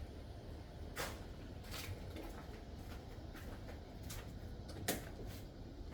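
A few light knocks and clicks, a sharper one about a second in and another near the end, over a low steady rumble.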